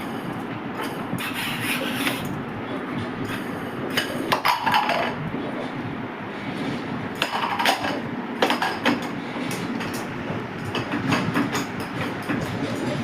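A bowl being knocked and clattered by a beagle playing with it, in irregular bursts of knocks every few seconds over a steady low background rumble.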